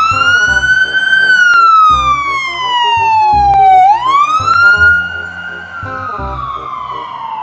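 Ambulance siren wailing: a tone that rises quickly, then falls slowly, twice, over background music with a steady beat.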